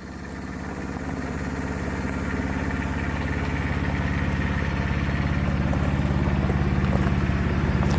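A small engine running steadily at low speed with a rapid even pulsing, growing louder over the first couple of seconds.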